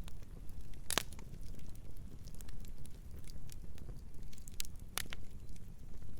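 Campfire burning with a low steady rustle and scattered sharp crackles and pops, the loudest pop about a second in and another near five seconds.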